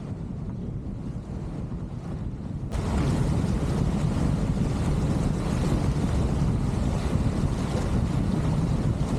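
Wind buffeting the microphone over the rush of water along the hulls of a Schionning Wahoo sailing catamaran under sail in strong wind. The noise jumps suddenly louder and fuller about a third of the way in.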